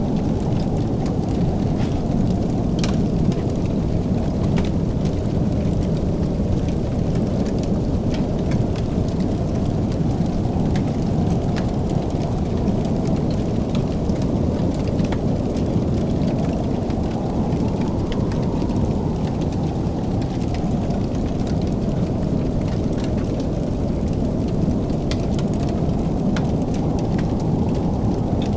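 Wood fire crackling: scattered sharp pops and snaps over a steady low roar.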